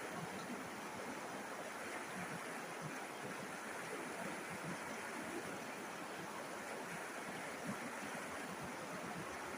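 A river flowing, with a steady even rush of water over stones.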